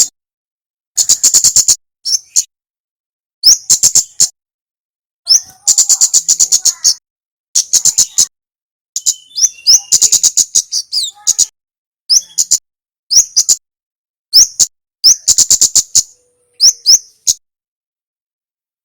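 Kemade songbird calling: rapid bursts of sharp, very high chip notes, each burst under a second long, repeated with short pauses. The calls stop a second or two before the end.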